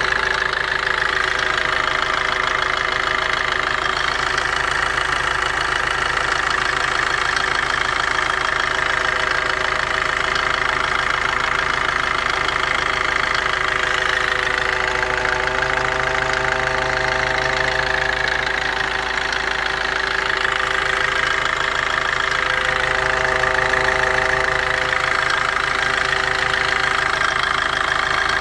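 Opel/Vauxhall 1.3 CDTI (Z13DTJ) diesel engine running steadily at idle, with a fan-like whirring noise in the background that comes and goes and is strongest about halfway through. The radiator fan is off, so the cause of the whirring is unknown.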